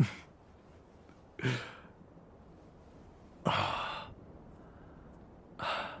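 A man's breathy sighs, four of them about one and a half to two seconds apart, each fading out over half a second.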